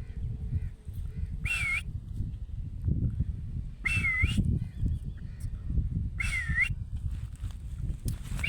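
Parrot whistling the same short note three times, about two and a half seconds apart, each dipping in pitch and rising back up, over a steady low rumble.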